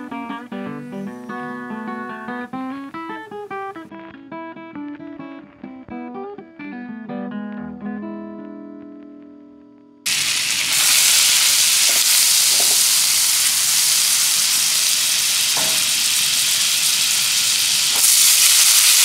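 Acoustic guitar music that thins out and stops, then about halfway through a loud, steady sizzle of frying cuts in suddenly. It grows a little louder near the end as corn kernels are poured into the bubbling fat in the pan.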